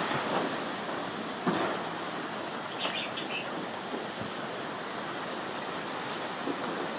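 Steady rain and wind of a tropical storm, an even hiss, with a brief high chirp about three seconds in.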